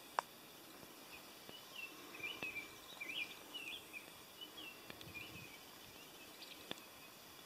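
A songbird singing a string of short, quick, warbling chirps for a few seconds over a steady faint hiss of outdoor ambience. A single sharp click comes just after the start.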